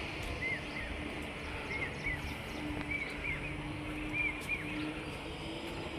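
A bird chirping over and over in short pairs of high, arched notes, over a low background rumble and a faint steady hum.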